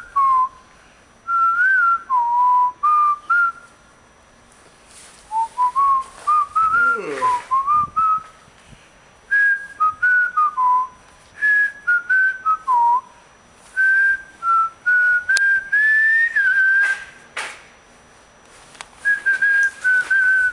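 A person whistling a tune in short phrases, one clear gliding note at a time.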